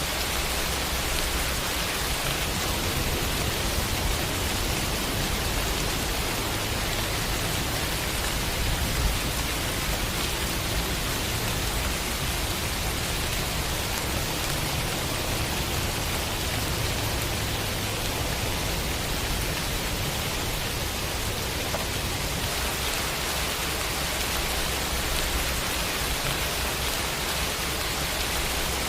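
Steady rain falling, a dense even hiss of drops with a low rumble underneath.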